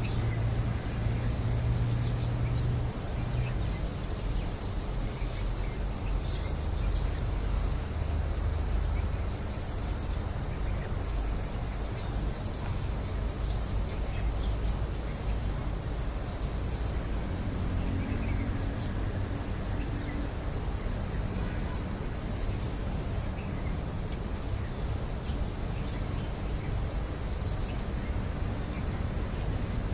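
Small birds chirping now and then over a steady outdoor background noise, with a low drone in the first three seconds.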